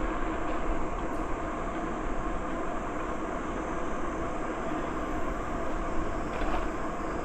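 Steady rolling noise of a bicycle in motion: tyres running on the trail surface, mixed with wind on the microphone, an even rumble with no change in pace.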